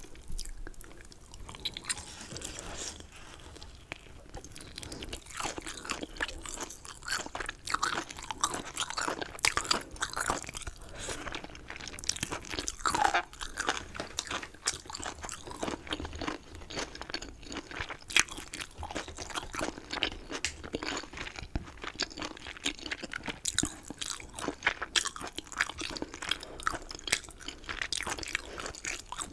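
Close-miked chewing of chicken, with continuous crunchy, crackly bites and mouth sounds.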